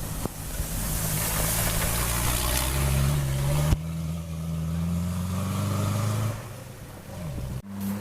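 Racing vehicle engines running, their pitch rising slowly as they accelerate. The sound changes abruptly about four seconds in and again near the end.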